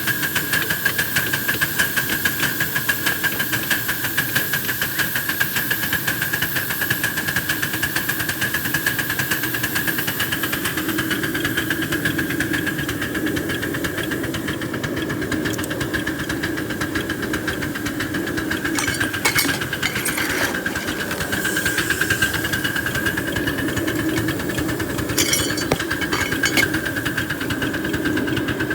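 Live steam garden-railway locomotive working hard up a grade, its exhaust beating in a fast, even rhythm over a steady high tone. A few sharp clicks come in the second half.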